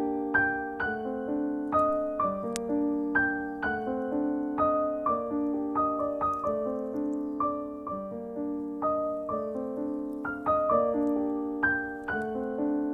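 Gentle solo piano music: slow, soft melody of single struck notes with sustained chords underneath.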